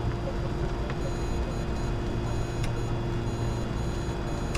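Steady cockpit noise of a Bombardier Challenger 605 in the climb: airflow and engine hum with a constant low drone. From about a second in, faint high-pitched tones pulse on and off in a repeating pattern over it, with a few faint clicks.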